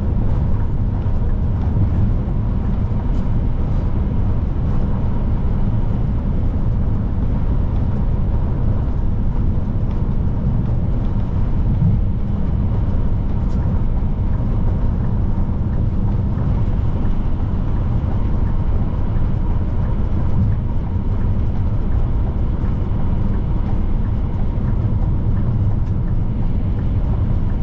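Scania P310 truck on the move: the diesel engine runs steadily under a constant loud rumble of engine and road noise, with no gear changes or revving.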